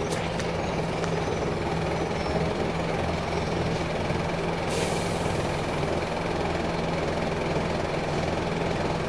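Scania K310 bus engine idling steadily. About halfway through, the air system lets off a burst of compressed-air hiss that fades over a second or so.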